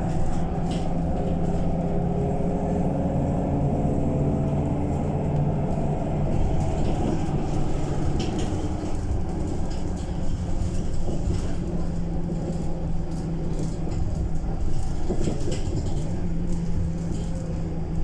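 Scania K230UB bus's five-cylinder diesel engine running steadily under way, with a continuous drone and scattered short rattles. The engine note shifts about 16 seconds in.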